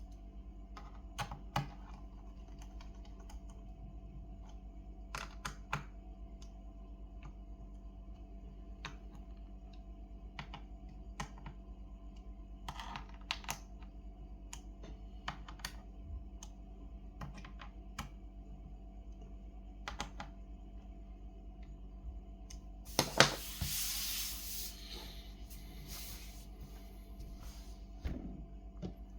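Scattered light plastic clicks and taps from handling the laptop, some in quick pairs, over a steady low electrical hum, with one louder clattering scrape about two-thirds of the way through.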